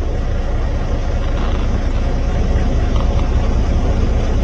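Steady low rumble of a semi truck's diesel engine and road noise while driving.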